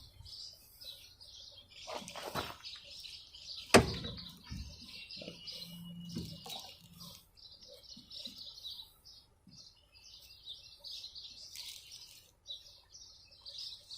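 Small birds chirping steadily, with a few handling knocks and one sharp knock about four seconds in.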